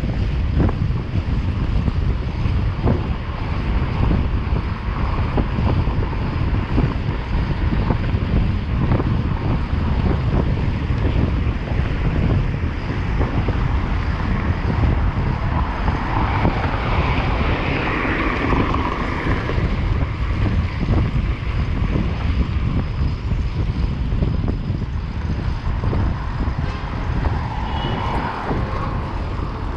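Wind buffeting the microphone of a moving bicycle, over street traffic noise; a vehicle passes partway through.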